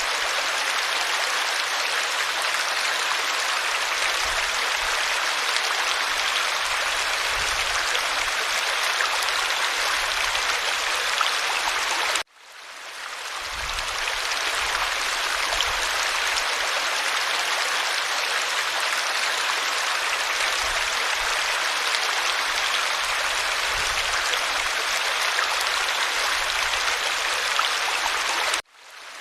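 Stream water flowing in a steady rushing babble. The sound cuts out abruptly twice, about twelve seconds in and near the end, and each time fades back in over a second or so.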